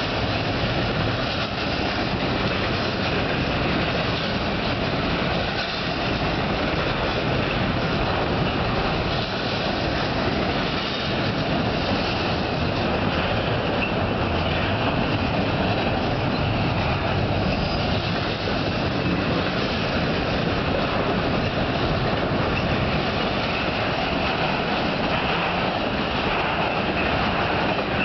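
Freight cars of a long intermodal train of double-stack container cars and trailer-carrying flatcars rolling steadily past: continuous rumble and rattle of wheels on rail, with a faint high steady tone over it.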